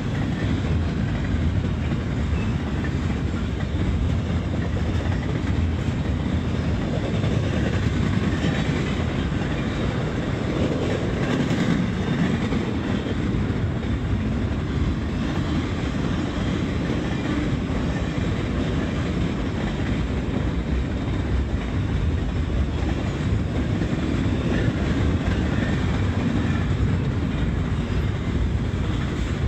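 Intermodal freight train rolling past, giving a steady rumble of steel wheels on the rails.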